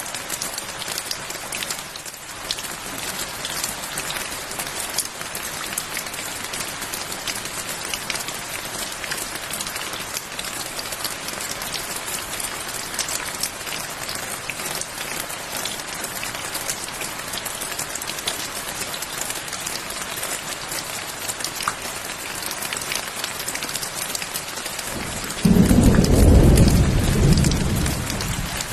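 Steady rain falling, with many fine drop ticks. Near the end a clap of thunder breaks in suddenly and rumbles low before fading.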